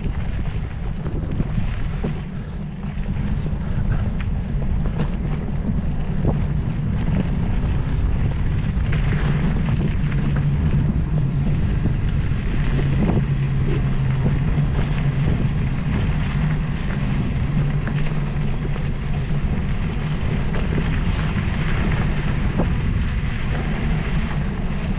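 Wind buffeting the microphone: a steady low rumble, with scattered light clicks and rattles throughout.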